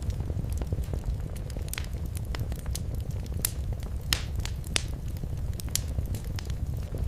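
Wood fire crackling over a steady low rumble, with irregular sharp pops and snaps, a few louder ones a little past the middle.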